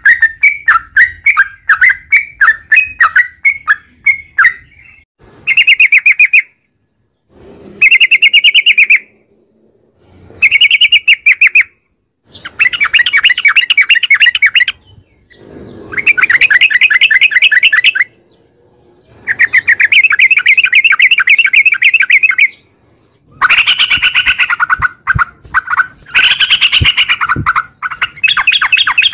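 Yellow-vented bulbul (trucukan) singing loudly. It starts with a quick string of separate bubbly notes, then gives a series of rapid rolling trills ("ropel"), each one to three seconds long, with short pauses between them.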